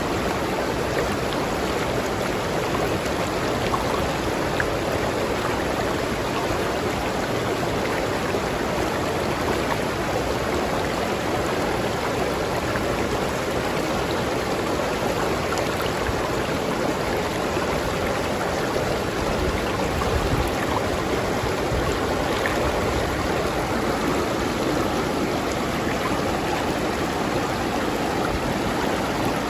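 River stream flowing steadily over rocks, a constant rushing and babbling of water.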